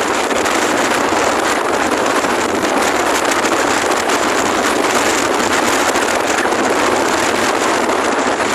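Strong wind buffeting the microphone of a moving scooter: a loud, steady rush with no engine note standing out.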